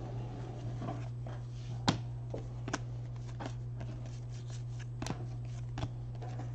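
Baseball trading cards being flipped and slid against one another, with short sharp snaps and soft rustles at irregular intervals, the loudest about 2 and 5 seconds in. A steady low hum runs underneath.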